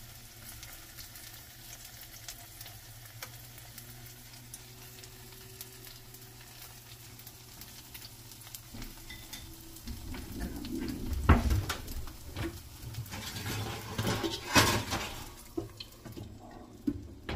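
Egg and wild greens frying in a nonstick pan with a steady light sizzle. In the second half come several knocks and clanks of cookware, and a glass lid is set on the pan near the end.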